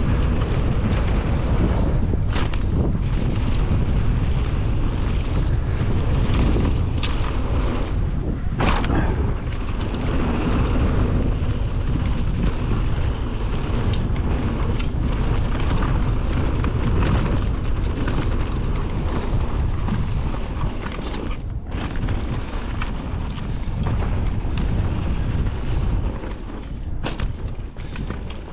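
Mountain bike descending a rough dirt trail: heavy wind buffeting on the microphone and tyre rumble, with frequent sharp knocks and clatters from the bike over bumps. It eases off a little near the end.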